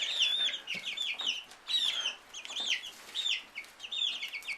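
A flock of five-week-old chicks cheeping: many short, high peeps overlapping in quick succession, each bending downward in pitch.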